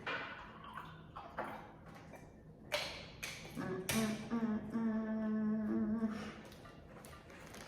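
A woman humming one held note for about two seconds, in the middle. Around it come a few light clicks and knocks of cups and containers being handled.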